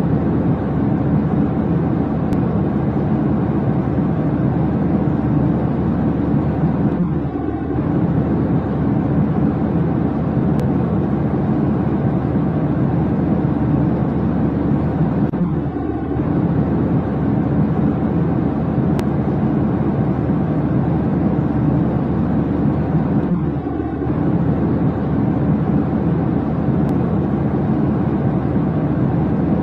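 Steady low engine rumble, with a short dip in level about every eight seconds, as if the recording repeats in a loop.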